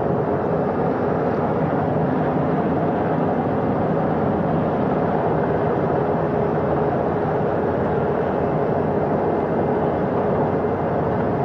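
Navy helicopter approaching to land on a ship's deck: steady engine and rotor noise with a few faint steady tones, unchanging throughout.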